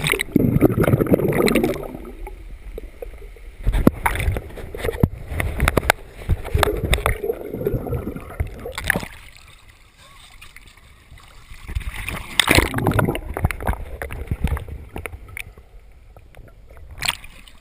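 Kayak being paddled: water splashing and sloshing with each paddle stroke, in irregular surges every few seconds.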